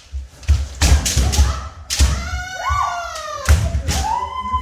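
Kendo practice: a rapid run of sharp stamps and strikes, as feet slam the wooden dojo floor and shinai hit armour. Two long, high kiai shouts follow, one about two and a half seconds in and another held from about three and a half seconds in.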